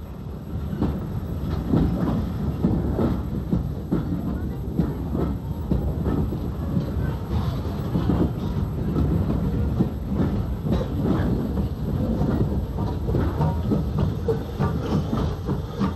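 Narrow-gauge coal train's wagons rumbling and clattering past over the rail joints, with a steady low rumble and many irregular knocks, louder from about a second in.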